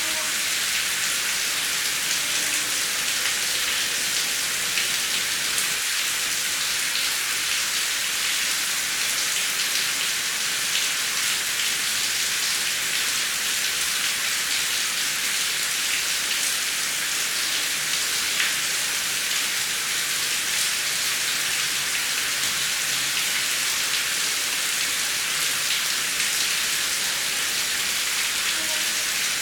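Heavy rain falling steadily: a dense, even hiss flecked with individual drop strikes, without thunder.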